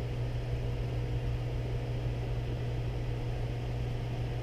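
Steady low electrical or machine hum with a faint even hiss, unchanging throughout, with no distinct tool clicks or knocks.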